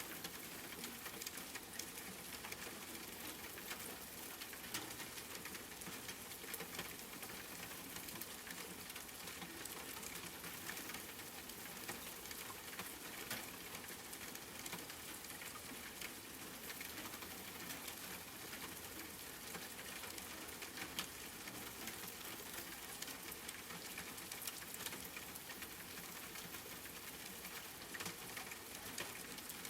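Steady rain with a dense patter of individual drops striking a surface.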